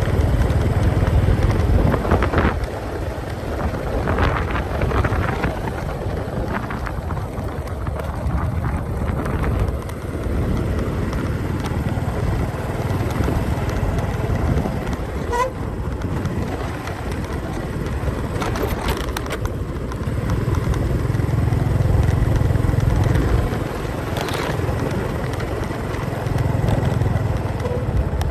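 Motorcycle engine running at road speed with wind and road noise, a steady low drone that swells and eases a few times.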